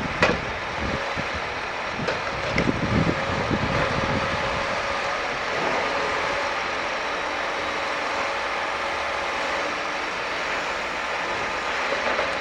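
Scania G440 timber truck running steadily while its hydraulic timber crane unloads logs, with a few sharp knocks of wood or steel in the first few seconds.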